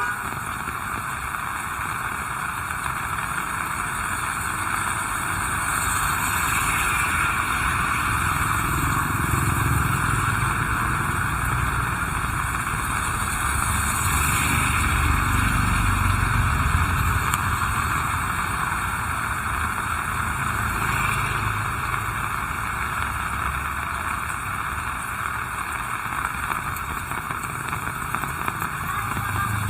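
Heavy rain falling in a steady hiss, with the low rumble of vehicles passing by a few times.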